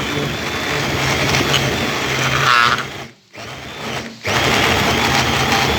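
Electric blender running in short pulses through shrimp broth with its cooked vegetables: about three seconds on, a brief stop, a short burst, then another run that stops near the end. It is a light blend, only partly breaking up the solids before the stock is strained.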